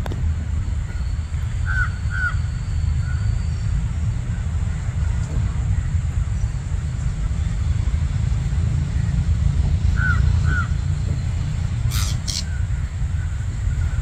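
Birds calling over a steady low rumble: a pair of short calls about two seconds in, another pair about ten seconds in, then two sharp high calls in quick succession about twelve seconds in.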